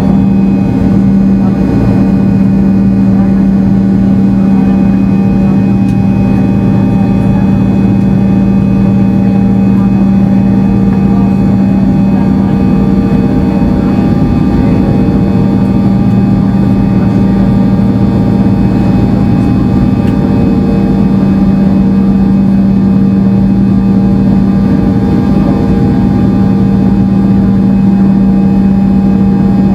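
A Fokker 70's Rolls-Royce Tay turbofan engines running steadily at high power. They make a loud, even buzz made of many fixed tones over a strong low hum.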